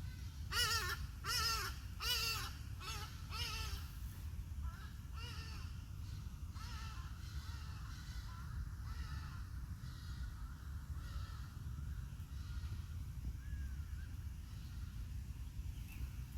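Birds calling: about five loud calls in quick succession in the first four seconds, then fainter, scattered calls until about halfway through, over a steady low rumble.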